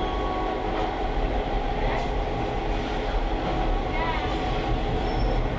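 A train running on the rails: a steady rumble and hiss of the moving cars, with a few light clicks and a brief high squeal about four seconds in.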